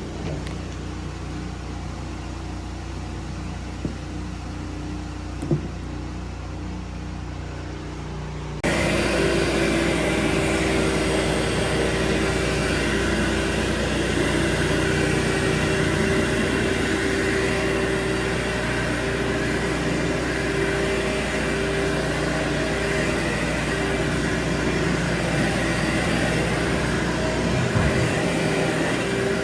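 Steady drone of carpet-cleaning machinery over the hiss of a pressure washer; about a third of the way in a louder motor cuts in abruptly, running steadily with a high whine over a broad hiss.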